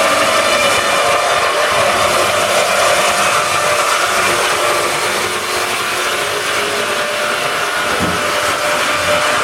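Topol 450M two-shaft log-sawing machine running steadily, its circular saw blades sawing a log, with a steady whine over loud noise.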